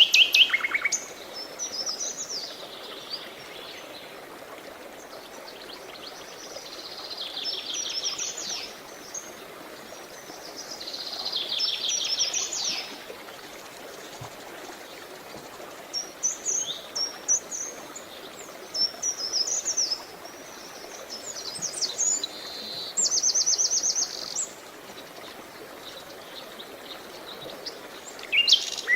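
Songbirds singing, with phrases of quick chirps and rapid trills coming every few seconds. Beneath them is a steady hiss of running water.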